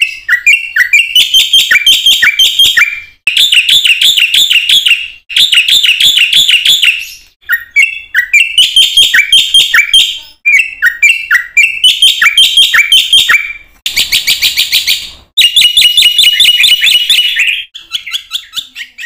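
Black-winged starling (jalak putih) singing loudly in rapid chattering phrases: fast runs of repeated whistled and harsh notes, each phrase about two seconds long with brief breaks between, about eight phrases in all.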